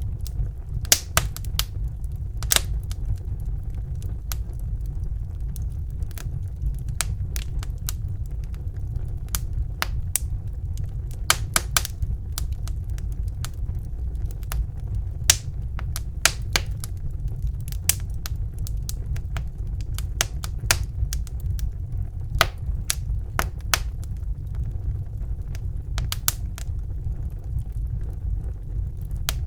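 Wood fire burning in a fireplace, crackling with many sharp, irregular pops over a steady low rumble of the flames.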